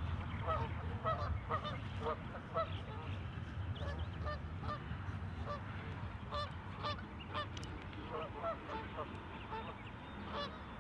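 Geese honking, many short calls repeating and overlapping from a flock on the water.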